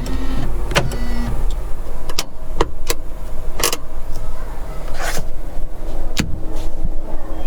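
A car being handled: a series of sharp, irregular clicks and knocks, about eight in all, over a steady low rumble, with brief low hums between them.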